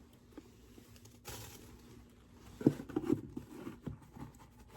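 Handling noises from work inside an empty beehive box: a sharp knock about two and a half seconds in, then a run of small knocks and rustles, as frames are shifted and dead bees cleared out.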